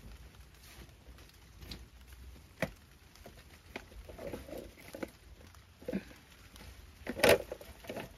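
Rain dripping and pattering in irregular taps, with a louder single knock about seven seconds in.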